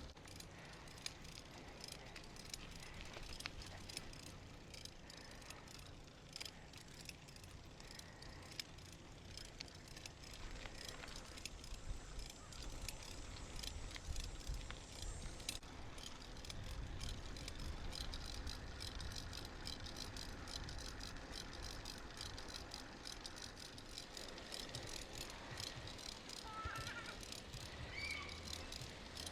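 Automatic-shifting bicycle being ridden, its frame and chain rattling with many small clicks over a low, uneven rumble. A few short chirps come near the end.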